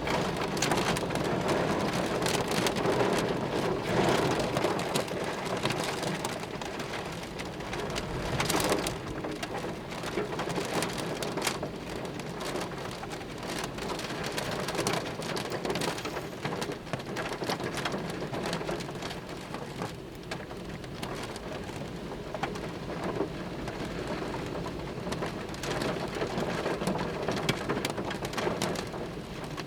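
Heavy thunderstorm rain pouring down and spattering on surfaces, loudest over the first few seconds and again briefly about nine seconds in.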